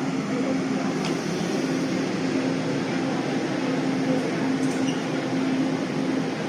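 Steady hum and rumble of a passenger train standing at a station platform, with one continuous low tone held throughout.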